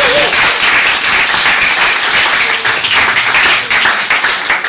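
Audience clapping after a spoken-word poem: loud, dense applause that begins to die away near the end.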